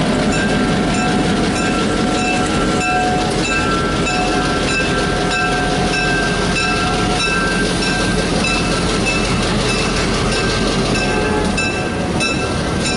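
A train running on the rails, a loud steady rumble and rattle, with a short high ringing tone repeating about twice a second.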